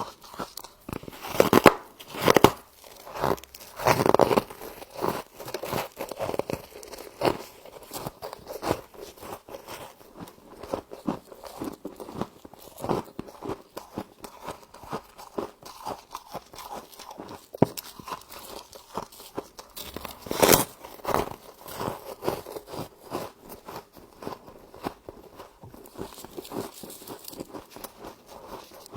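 Frost being bitten and chewed close to the microphone: a steady run of crisp crunches, with louder bites about two and four seconds in and again about two-thirds of the way through.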